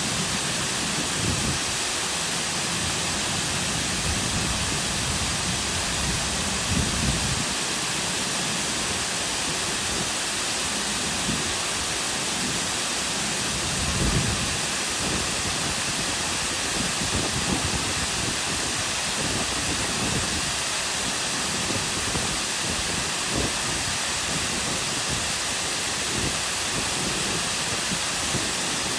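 Cascading waterfall: steady rushing and splashing water, with occasional heavier low splashes.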